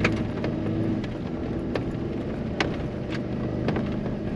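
Jeep engine running steadily under load as it climbs a steep grade through snow and ice. A handful of irregular sharp clicks and knocks sound over the engine note.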